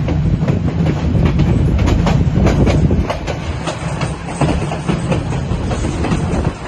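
White Pass & Yukon Route train running on its rails: a loud, steady low rumble with irregular clicking and clatter of the wheels over the track.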